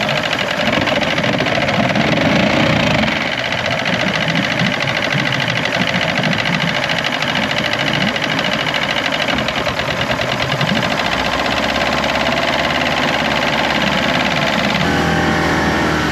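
Outboard motor running loud and steady, with a rapid, even firing beat; its tone shifts a little near the end.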